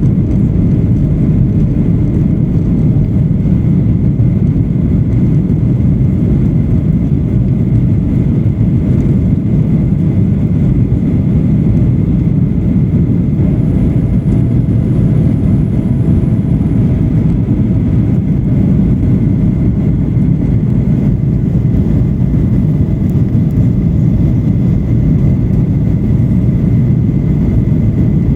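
Steady cabin noise of a Boeing 737-800 in flight: the low roar of its CFM56 jet engines and the airflow, heard from inside the passenger cabin, with a faint steady high tone over it.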